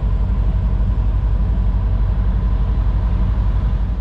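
Semi truck's diesel engine idling steadily with a fast, even low throb.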